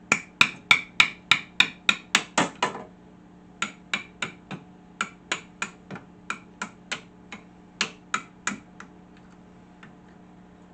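Hammer tapping a steel drift punch, metal on metal, to drive a pin out of a 1950s Darra James table saw's hand-wheel assembly. There are quick sharp ringing strikes about three a second, a short break about three seconds in, then more strikes that stop a couple of seconds before the end, all over a steady low hum.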